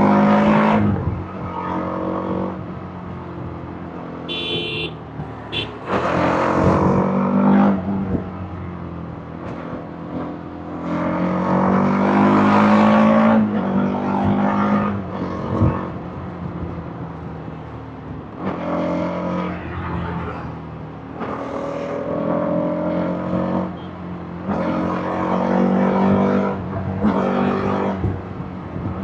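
TVS Apache RR310's single-cylinder engine and exhaust under way, revving up repeatedly, rising in pitch on each pull and dropping back at each gear change or roll-off.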